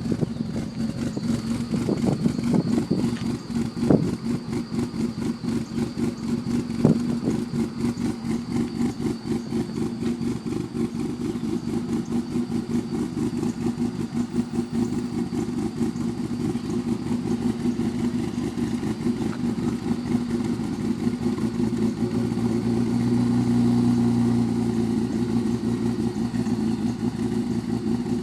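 BMW E36 M3's S52 straight-six, fitted with Schrick cams, an Active Autowerke 3-inch race pipe and a Dinan cat-back exhaust, idling after a cold start. The exhaust note pulses steadily, with a few sharp knocks in the first seven seconds and a slight swell in level a little past halfway.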